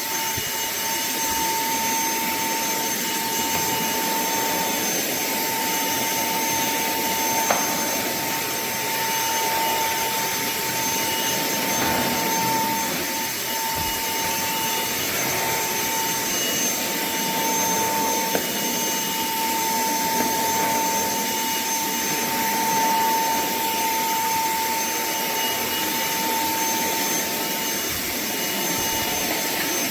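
Small cordless handheld vacuum cleaner running steadily: a rush of air with a steady high motor whine.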